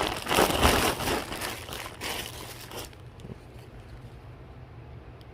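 Packaging crinkling and rustling as items are handled and unwrapped, for about the first three seconds, then only a faint low hum.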